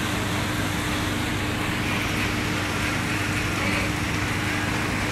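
Heavy rain falling on wet asphalt, a steady, even hiss of drops and splashes, with a faint steady hum underneath.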